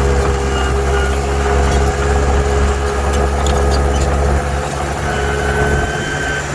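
Heavy diesel earthmoving machinery running steadily with a deep engine hum. A thin high whine joins about five seconds in.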